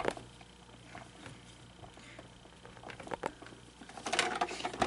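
Faint scattered clicks and taps of a plastic animatronic singing figure being handled, with a quick run of clicks near the end.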